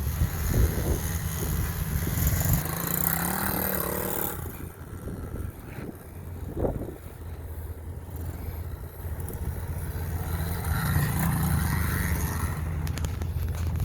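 SSR 110 pit bike's small four-stroke single-cylinder engine running. It fades for a few seconds around the middle and comes back louder near the end, as though riding away and back.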